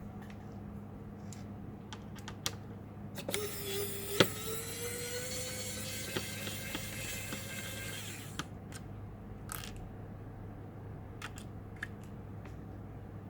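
HP laptop being taken apart by hand: scattered clicks and taps of plastic case parts and small screws. A denser stretch of about five seconds, with a slowly rising tone, runs in the middle.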